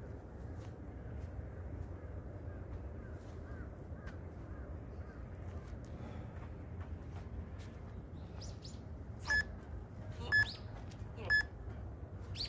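Interval timer beeping three short countdown beeps about a second apart near the end of the rest period, signalling the next set of pull-ups is about to start.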